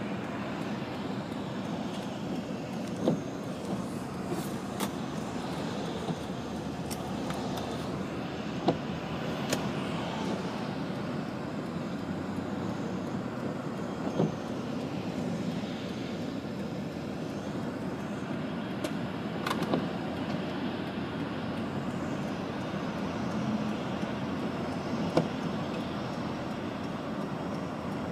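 Union Pacific freight train's diesel locomotives rolling past at speed: a steady rumble of engines and wheels on rail, with occasional sharp clicks.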